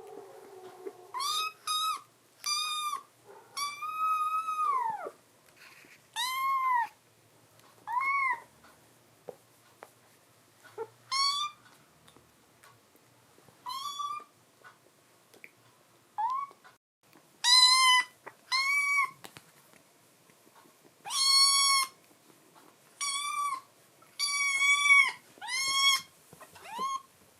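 A kitten meowing over and over: short, high, arching meows, one drawn out longer about four seconds in, coming thicker and faster in the last ten seconds.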